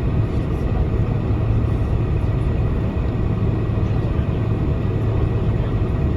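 Steady cabin noise inside a Boeing 747-400 taxiing: a low engine hum and rumble with a constant low tone.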